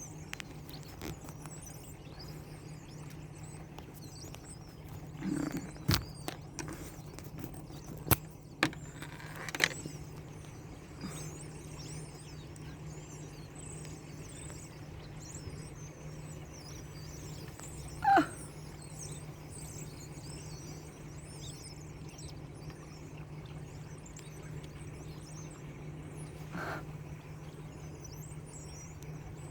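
A huge flock of birds chattering, with many high chirps overlapping throughout, over the steady low hum of an idling car. A few sharp knocks come about a quarter of the way in. A single louder call falling in pitch comes about two-thirds of the way through.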